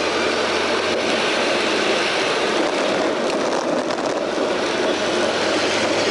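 Steady rushing wind and road noise of a bicycle ride, picked up by an action camera's microphone.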